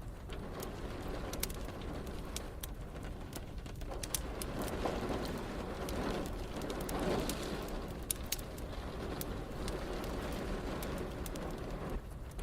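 Fireplace crackling in sharp, scattered pops over a steady hiss of rain. A broader, low swelling sound rises and fades a little before the middle.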